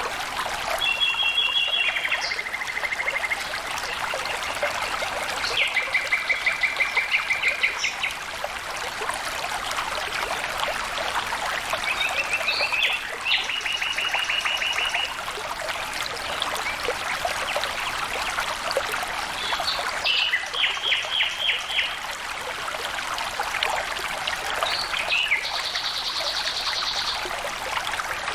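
Water trickling and flowing steadily, with a bird singing short, rapid, high trills every few seconds.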